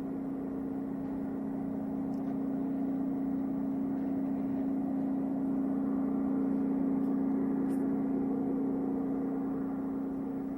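Low, steady horn-like drone with several held tones, swelling slowly about halfway through and easing near the end: the unexplained 'strange sound from the sky' hum. Its source is unknown, and the recorder wonders whether it is construction.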